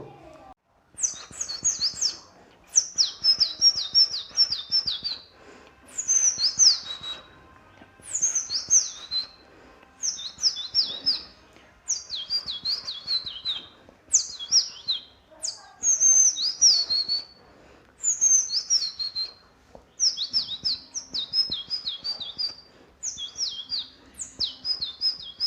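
A person mimicking birdsong with the mouth: about a dozen short phrases of rapid, high, falling chirps, each a second or two long with brief pauses between.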